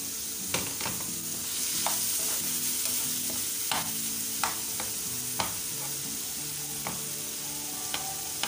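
Onions, tomatoes and spice masala sizzling in oil in a frying pan over a low gas flame, with a steady hiss. A perforated metal spoon stirring them taps and scrapes against the pan about eight times.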